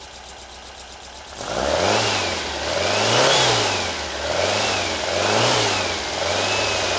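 Porsche 912 air-cooled flat-four engine, freshly rebuilt and on its first run in 15 years, idling and then revved by hand at the carburetor linkage. About a second and a half in, it picks up sharply and rises and falls in pitch four times. It then holds a steady, faster idle near the end.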